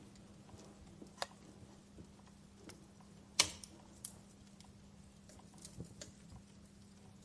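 Wood fire crackling in a fireplace: scattered sharp pops and ticks, with one loud pop about midway.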